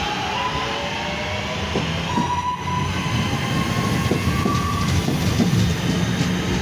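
Class 323 electric multiple unit pulling away, its traction motors whining in rising and then steady tones over growing wheel rumble and rail clicks.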